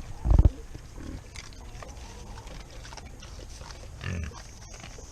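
Pigs grunting: a loud, short grunt just after the start, then a quieter stretch with another grunt about four seconds in.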